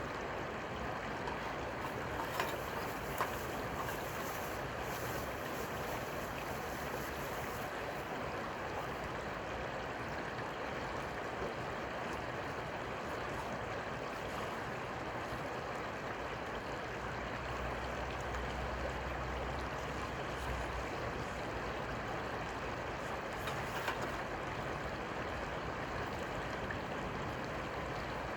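Steady noise of river water, with a few faint clicks.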